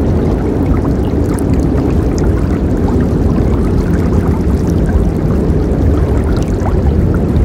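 A river running steadily, its water rushing with a deep, even low rumble and small splashes.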